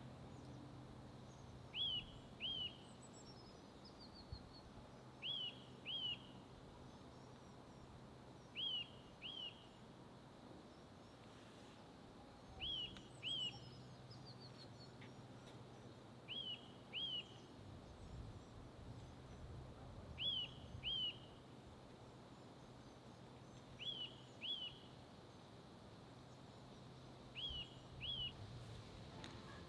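A wild bird calling outdoors, repeating a pair of short, high, quickly falling notes about every three to four seconds, with a few fainter chirps from other birds. A faint steady low hum runs underneath.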